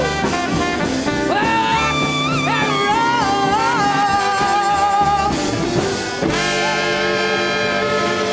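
Live jazz/R&B band with horns playing a bending, gliding lead line over the rhythm section. About six seconds in the band moves into a long held chord.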